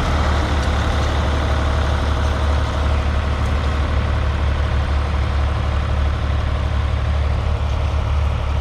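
1967 Ford 3000's 2.9-litre three-cylinder diesel engine running steadily, with a deep, even low hum.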